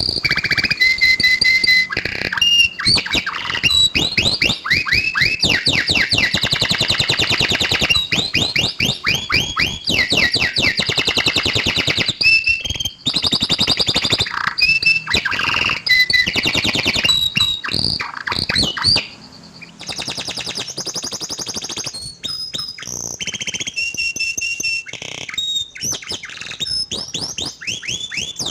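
Canary song: long runs of fast repeated chirping trills and rolls broken by short clear whistles, one phrase after another without pause. It is a recorded song used to prompt a canary that has stopped singing into song; about 19 s in the sound drops in level and turns brighter, as from a different recording.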